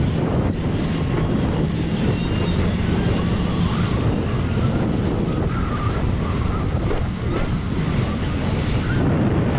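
Tow boat's motor running steadily under way, mixed with wind buffeting the microphone and the rush of water.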